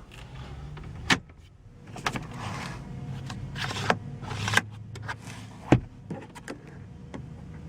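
Car interior fittings clicking and knocking as they are handled, with a few short swishing swells in between, over a low steady hum.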